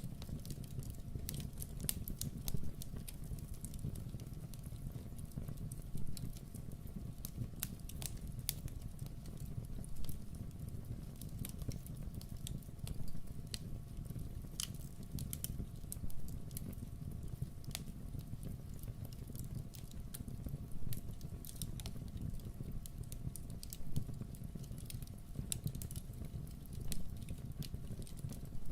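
Wood fire crackling in a fireplace: frequent sharp pops and snaps, some louder every couple of seconds, over a steady low rumble.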